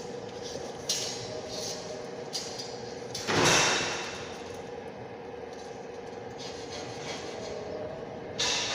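Punch press running with a steady motor hum, punching holes in UMP 8 steel channel. A loud punching stroke with a ringing tail comes about three seconds in and another near the end, with lighter metal clanks between.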